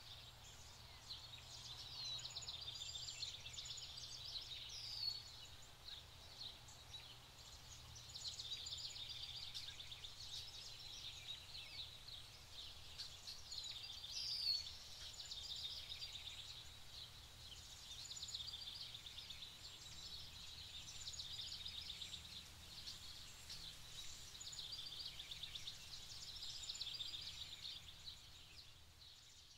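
Small songbirds chirping and twittering without pause, with a few sharper whistled calls about 5 seconds in and again near the middle, over a low steady rumble.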